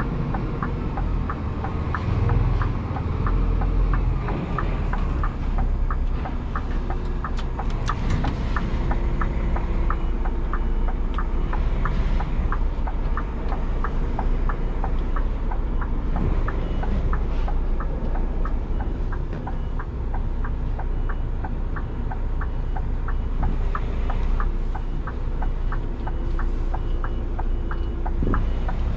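Scania G410 truck's 13-litre inline-six diesel running under way at low speed, a steady low rumble, with a regular light ticking about two to three times a second over it.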